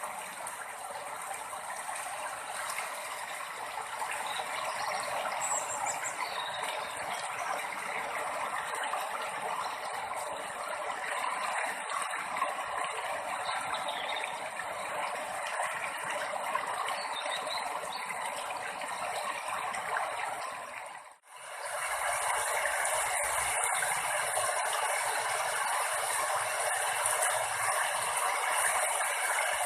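Steady rushing water. It breaks off abruptly about 21 seconds in, then comes back a little brighter.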